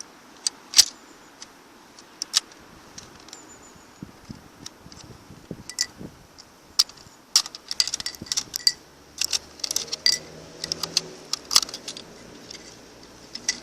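Plastic toy logging truck being handled: scattered clicks and rattles of its parts, growing denser in the second half, with a faint low hum from about eight to eleven seconds in.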